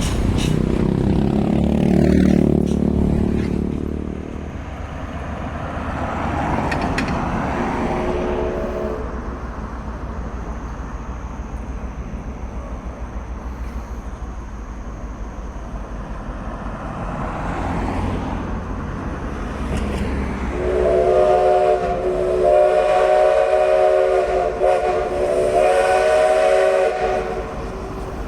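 Train passing, with its locomotive sounding a multi-note chord signal: a short blast about eight seconds in and a long one from about twenty seconds in, broken briefly near twenty-five seconds, over the rumble of the running train.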